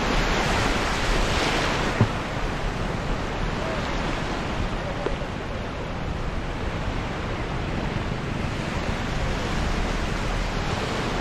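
Sea surf washing onto a beach, a steady rush with a louder wave swell in the first two seconds, and wind buffeting the microphone.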